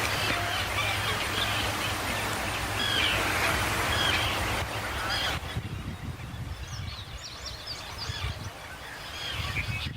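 Birds calling over and over in short calls that bend up and down in pitch, over a steady low rumble. The background noise drops suddenly about five seconds in, while the calls carry on.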